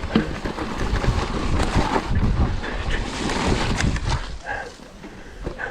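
Mountain bike riding over a wet, rough trail: rumble and rattle of tyres and bike over the ground, with rushing noise on the microphone. It eases off in the last couple of seconds, with a few short higher sounds near the end.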